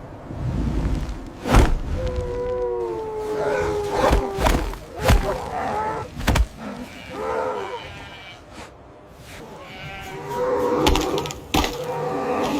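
Animal calls: several long, drawn-out cries that fall slightly in pitch, mixed with sharp knocks, and a busier patch of calls near the end.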